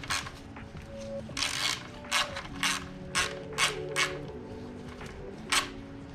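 Hand tool clicking in short strokes, like a ratchet wrench, loosening the fastening of the front radius rod at the bottom of a Model T engine. There are about eight sharp clicks and a short rasp about a second and a half in, over quiet background music.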